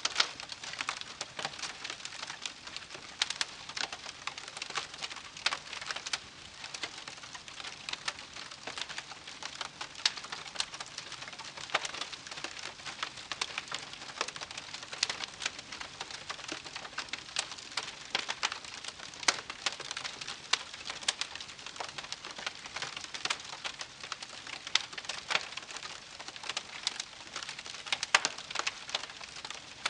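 Wood campfire crackling: a steady hiss with frequent irregular sharp pops and snaps.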